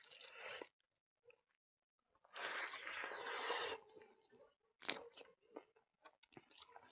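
A person biting and chewing food with a crunch, a longer crunching stretch a little past two seconds in, then a few sharp clicks of chewing toward the end.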